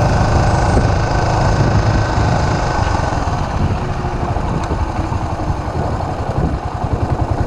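Suzuki S40's 650 cc single-cylinder four-stroke engine running on the move, heard from the saddle with wind rush. About six seconds in it drops to a low, even beat of separate firing pulses as the bike slows.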